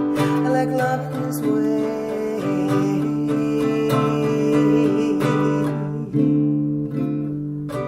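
Ukulele strumming chords in an instrumental passage, a fresh strum about every second with the chord ringing between.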